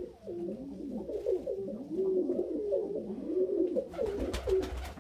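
Domestic pigeons cooing, several overlapping rolling coos in a row. A brief rustling noise comes near the end.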